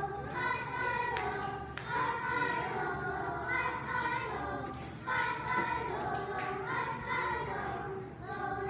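A group of children singing together in held notes that step from pitch to pitch.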